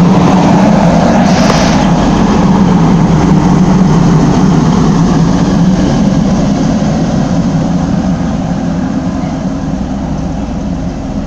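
Diesel engines of a Class 185 diesel multiple unit running as it stands at the platform, a steady low hum that slowly fades over the second half.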